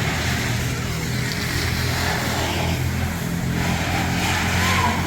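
A steady motor running, a low hum with a hiss above it.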